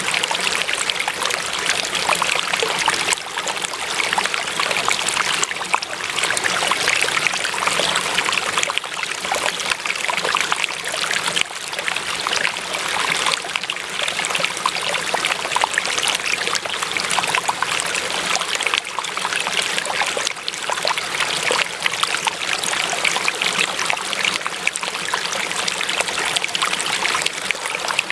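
Running water of a stream trickling and splashing, with a steady, unbroken flow.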